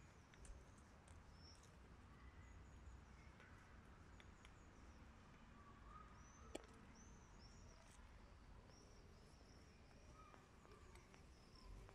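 Near silence outdoors: small birds chirping faintly in short repeated high notes, with one sharp click about six and a half seconds in.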